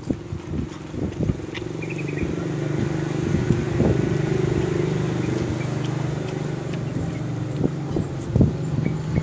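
A motor vehicle engine running steadily, coming up about two seconds in and holding, over a few sharp clicks and crunches in the first second or two.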